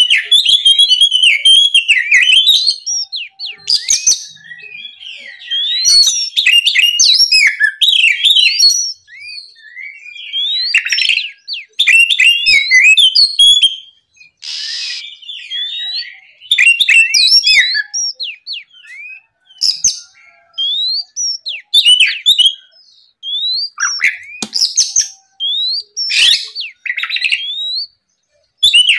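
Oriental magpie-robin (kacer) singing a loud, varied song of whistles, rising and falling slurs and quick trills, delivered in bursts with short pauses between phrases.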